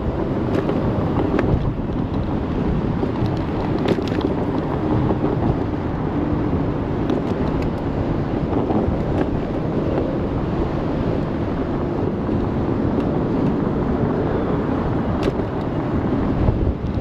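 Steady wind rush over the microphone and road rumble from riding an ONYX RCR 80V electric moped, with a few faint ticks.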